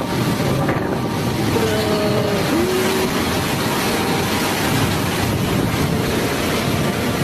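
Loud storm noise of strong wind and rushing water, with wind buffeting the microphone. A faint voice-like call wavers briefly about two seconds in.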